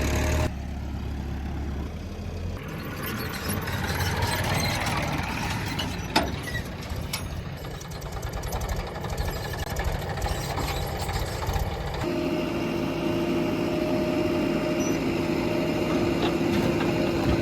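Heavy diesel machinery engines running, the sound changing abruptly a few times, with a single sharp knock about six seconds in.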